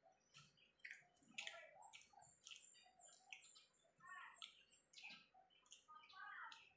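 Quiet, close-up chewing of a soft beef tortilla: a run of small wet mouth clicks and smacks, irregular throughout.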